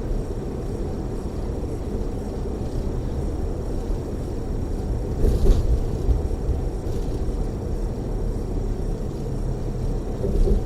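Steady low rumble of road and engine noise inside a tour coach cruising on a freeway. There is a brief louder knock about halfway through and a smaller one near the end.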